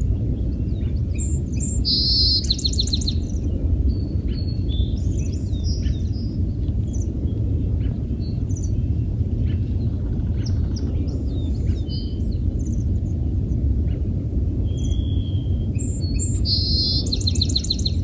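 Small birds chirping and calling, with one short, fast trilled phrase about two seconds in and again near the end, over a steady low background rumble.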